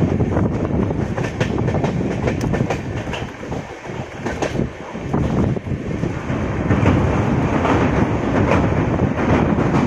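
Passenger train running along the track: a steady rumble of the coach with many irregular sharp knocks from the wheels passing over rail joints.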